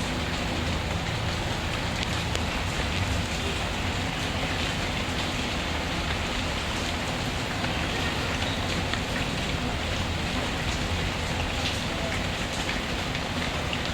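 Steady rainfall hissing evenly, mixed with faint, scattered crackles from a wood fire.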